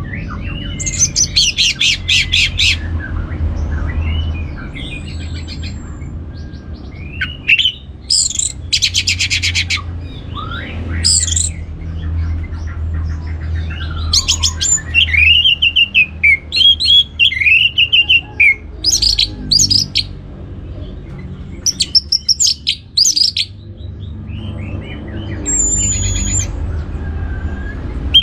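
Orange-headed thrush singing a varied song: rapid stuttering trills, clear slurred whistles and arched chirping phrases with short pauses between them, over a steady low hum.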